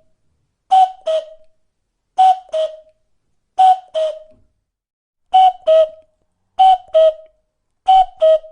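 A bird calling a two-note phrase over and over, the second note slightly lower than the first, about six times, roughly once every second and a half.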